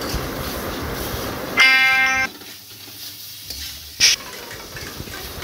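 Raw chicken pieces sizzling in hot oil and spice paste in a steel pan, scraped and turned with a steel spatula. About a second and a half in, a loud steady pitched tone lasts under a second. After it the sizzling drops away, with one sharp clink of the spatula near four seconds.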